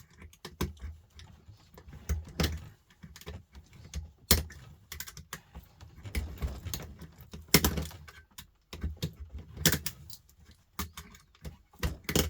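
Box knife scraping and cutting at small brass plug pieces held in a vise, giving irregular small metallic clicks and scrapes, with a few sharper snaps.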